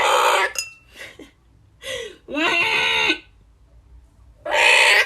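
A bird giving a series of loud, harsh calls: a short squawk at the start, a longer wavering call about two seconds in, and another squawk near the end.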